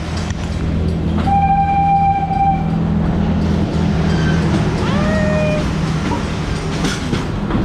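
Wildlife Express Train steam locomotive blowing its whistle twice over a steady low hum: one held blast about a second in, then a second that slides up in pitch before holding, about five seconds in.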